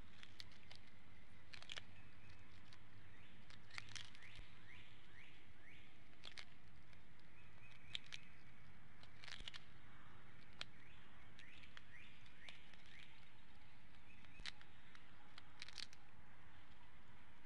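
Birds chirping: short chirps and sharp high notes every second or so, some in quick runs, over a steady faint background hiss.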